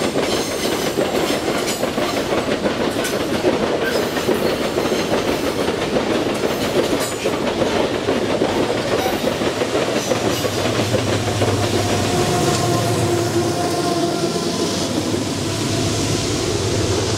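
Loaded iron ore wagons of a freight train rolling past, wheels clattering over the rail joints in a steady clickety-clack with sharp clicks. In the second half the clatter thins and a steady low hum with a few faint held tones carries on as the end of the train goes by and draws away.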